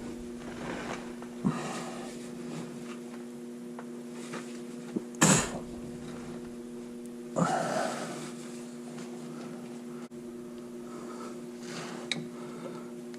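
Steady electrical hum with a few scattered knocks and clatters of hand tools being handled. The loudest knock is about five seconds in, with a rougher clatter a couple of seconds later.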